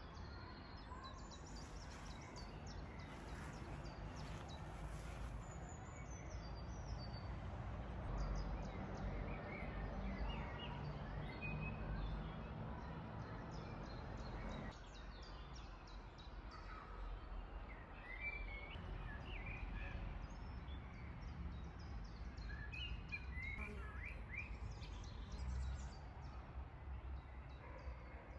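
Songbirds chirping and singing, many short calls over a steady low background rumble.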